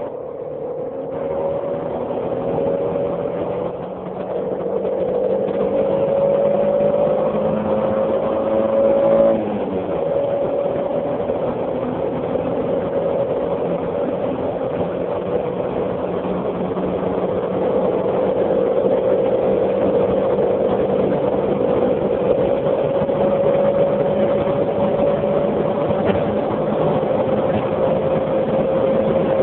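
Jaguar X-Type's 2.5-litre V6 heard from inside the cabin as the car accelerates at high speed. Its note rises slowly, drops briefly about nine seconds in at a gear change, then climbs steadily again over road and wind noise.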